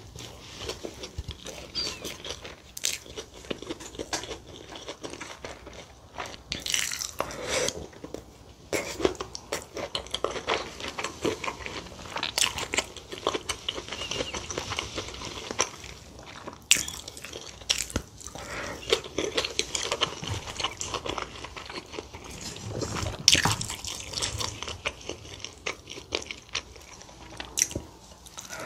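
Close-miked eating: chewing and crunching bites of kimchi stew and its side dishes, with wet mouth sounds and irregular louder bites.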